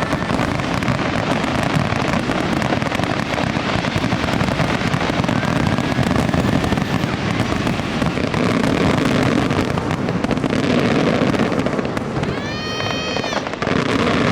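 Fireworks finale barrage: shells bursting and crackling densely with no break between them. Near the end a short whistle rises and falls over the bangs.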